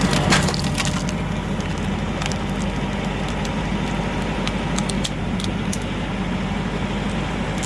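Tractor-driven screw log splitter at work: the engine runs steadily while the threaded cone bores into a log, which cracks and splinters as it splits. One loud crack comes just after the start, and smaller cracks come later.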